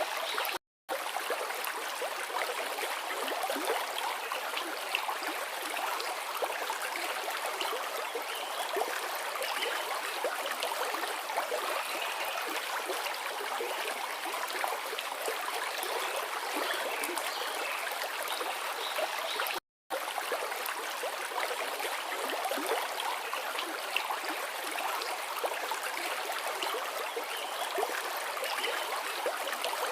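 Forest river water flowing, a steady rushing hiss with no deep rumble. The sound cuts out completely for a split second twice, about a second in and about two-thirds of the way through.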